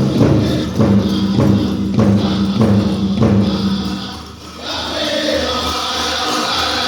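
Powwow drum group: a big drum struck in steady beats under group singing. About four seconds in the drumming drops out briefly and a high, wavering lead voice takes up the song.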